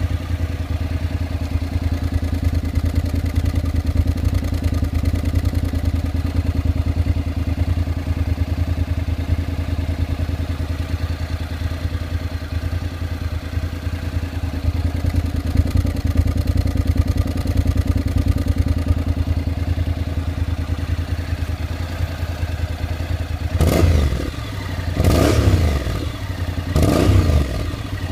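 Honda NC700X parallel-twin engine running through an SP Takegawa cone oval aftermarket muffler, idling steadily, then blipped three times near the end, the revs rising and falling quickly each time.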